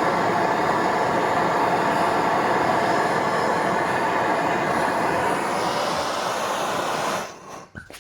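Gas brazing torch flame burning with a steady, loud hiss while heating a copper-to-aluminium joint for brazing, then shut off suddenly about seven seconds in.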